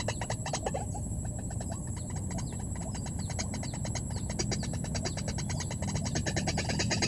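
Rapid, evenly pulsing animal calls in long repeated trains, with a steady high-pitched whine underneath.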